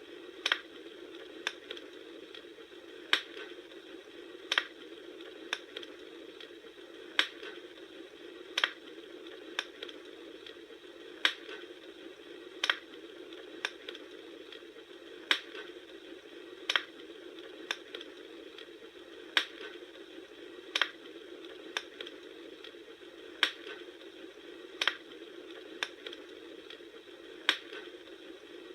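Bonfire crackling: a steady soft hiss with sharp wood pops about once every second or so, the same pattern of pops coming round again about every four seconds.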